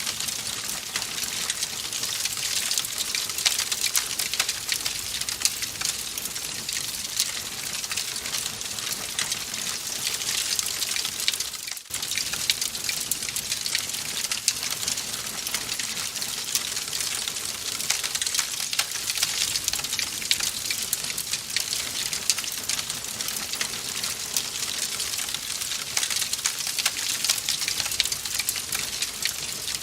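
Wood fire crackling in a fireplace: a dense, steady stream of small pops and snaps over a hiss. It drops out for an instant about twelve seconds in.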